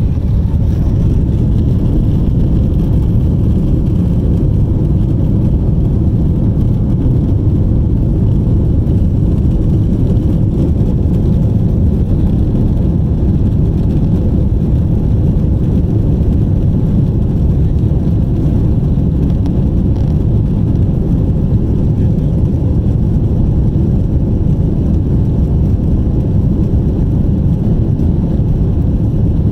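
Airbus A350 airliner, a steady deep rumble of its jet engines and airframe that holds an even level, without rising or falling.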